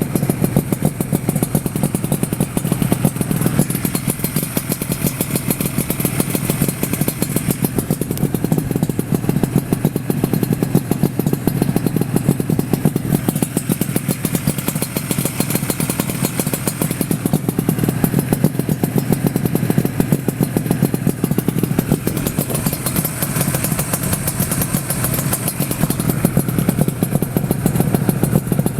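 Yamaha RZ250 with an RZ350 two-stroke parallel-twin engine running steadily through its expansion-chamber exhausts, engine speed held even with no revving.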